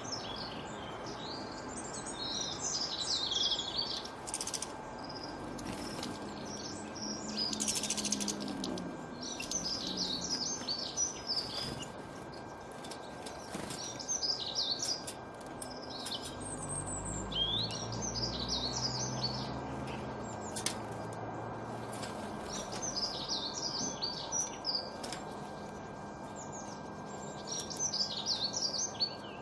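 Small songbirds singing in short bursts of rapid high chirps, a new phrase every few seconds. A low rumble swells and fades about halfway through, over a faint steady hum.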